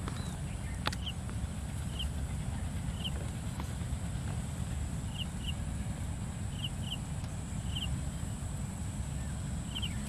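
Open-air ambience: a low steady rumble under a thin steady high tone, with a small bird repeating short double chirps every second or so.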